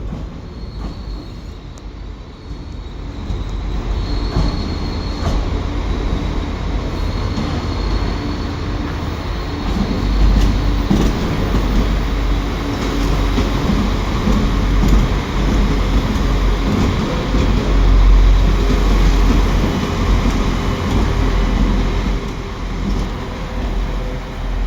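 A train moving through a station platform, its deep rumble growing louder from a few seconds in and loudest about two-thirds of the way through before easing slightly.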